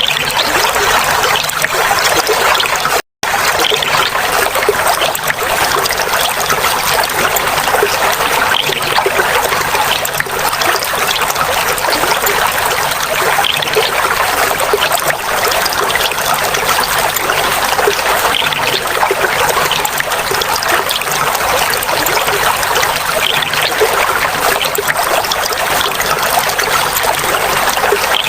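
Clear running water trickling and babbling steadily, with a short gap of silence about three seconds in.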